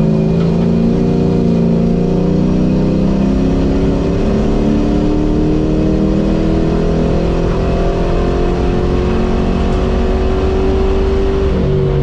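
A car engine heard from inside the cabin, accelerating down a straight. Its pitch climbs slowly and steadily for about eleven seconds, then drops at the very end as it shifts up.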